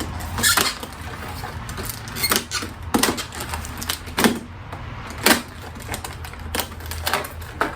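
Stiff plastic packaging of pressure-washer nozzle tips being forced open: a string of irregular sharp clicks, cracks and crinkles.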